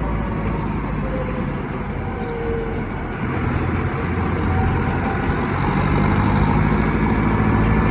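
Mahindra Arjun Novo tractor's diesel engine running steadily under way, still on its stock silencer and not yet turbocharged.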